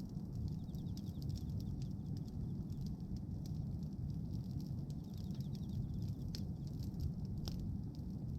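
Bonfire of pruned tree branches crackling and popping with irregular sharp snaps over a steady low rumble, one louder pop about seven and a half seconds in.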